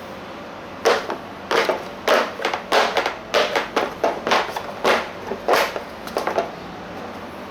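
An irregular run of about a dozen short knocks and scrapes in quick succession, which then stop.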